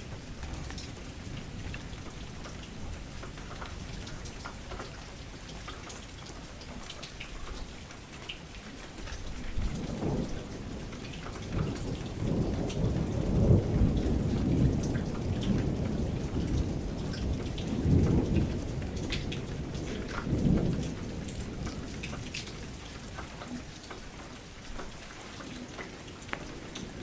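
Steady rain falling, with scattered drops ticking, and a long roll of thunder rumbling in about a third of the way through, swelling several times before dying away.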